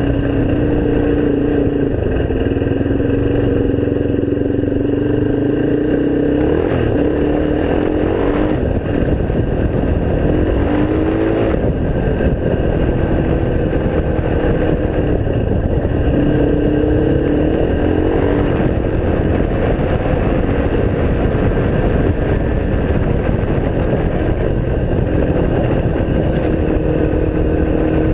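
Single-cylinder off-road engine running under way while riding, its pitch rising and falling as the throttle opens and closes.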